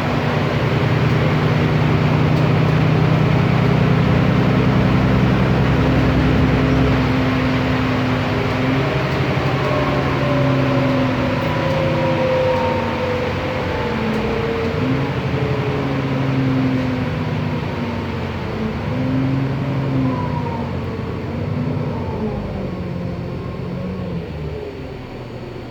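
Cummins ISB diesel engine of an Otokar Kent LF city bus running while the bus is driving. The engine note holds steady for several seconds, then its pitch falls and changes in steps, with a whine gliding down in the middle, and it grows a little quieter near the end.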